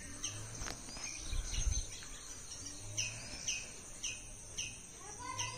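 A bird calling over and over, short high notes that each drop in pitch, coming about two a second for a stretch in the middle.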